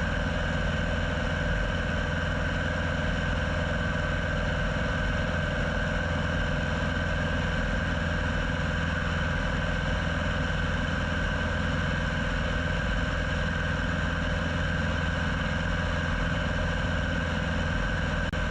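Piper Super Cub floatplane's engine and propeller droning steadily in cruise flight, heard from inside the cockpit.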